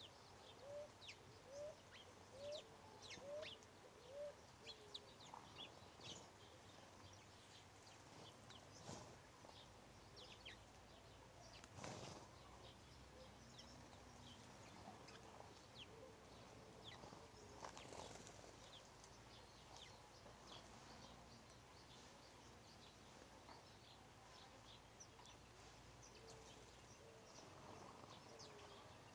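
Faint bird calls: many short, high chirps, with a quick series of low repeated notes in the first few seconds. Two brief rushes of noise come about twelve and eighteen seconds in.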